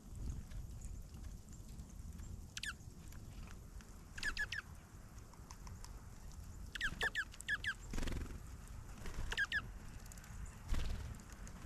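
Small birds chirping: short, quick, downward-sliding notes in clusters of two or three, repeated every second or two. A steady low rumble runs underneath, with a couple of dull low thumps, the loudest near the end.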